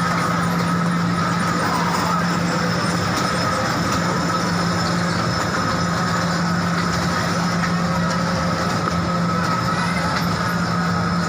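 Train running at a steady speed: continuous running noise with a steady low hum and a fainter high whine.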